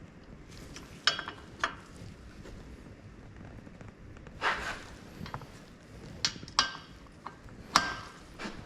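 Sharp metallic clinks and knocks of tools and steel parts being handled during brake work, about seven of them at irregular intervals, one about halfway through slightly longer and rattling.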